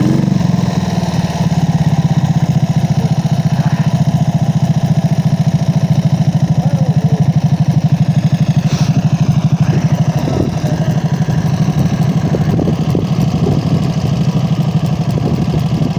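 Dnepr motorcycle's flat-twin engine running steadily with an even beat.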